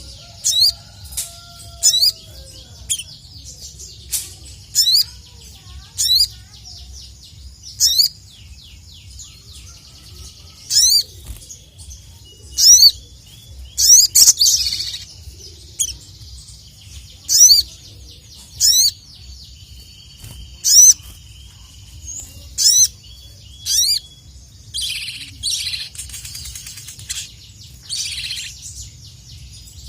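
Sogon (sogok ontong) singing: loud, sharp, high chirps repeated about every second or two, with fainter rapid trills between them and a busier stretch of chattering notes near the end.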